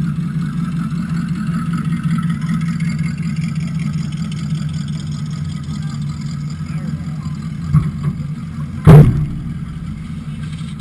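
Car engine running steadily at low speed, heard through a camera mounted on the hood, with a small knock and then a sharp, loud thump about nine seconds in.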